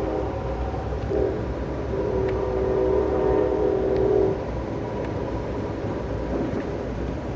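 Locomotive horn sounding over the steady rumble of the moving passenger train: a brief blast about a second in, then a long blast that ends a little past the middle, the tail of a grade-crossing signal.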